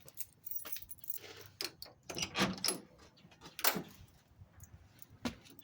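Keys jangling and clicking in irregular bursts, with a few sharp knocks and rustles.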